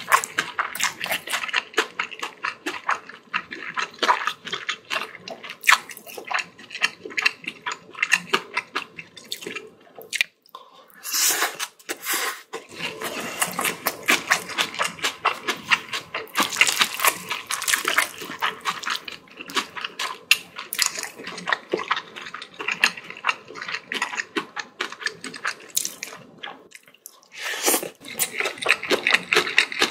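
Close-miked wet chewing and smacking of mouthfuls of spicy bibimbap: a dense run of moist clicks and squelches, with two short pauses, about ten seconds in and near the end.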